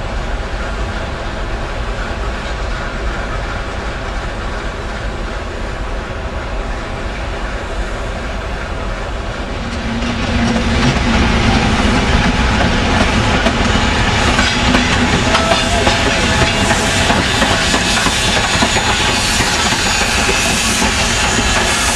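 Soviet class L steam locomotive L-0022 running with its train, with wheels clacking over the rail joints and steam hissing. The sound grows louder about ten seconds in, with more hiss.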